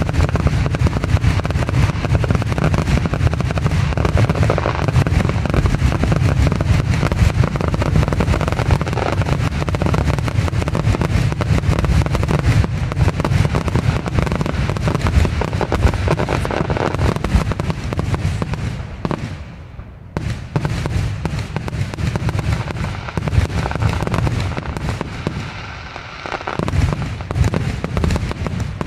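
Aerial fireworks display: a dense, near-continuous barrage of booms and crackles. It eases briefly about two-thirds of the way through and again near the end, then picks back up.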